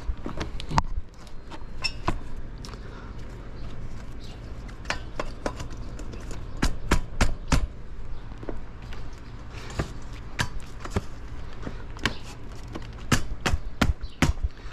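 Exhaust clamp and muffler pipe being handled and fitted onto an SSR 125 dirt bike's exhaust: irregular sharp metal clicks and knocks, bunched about seven and thirteen seconds in.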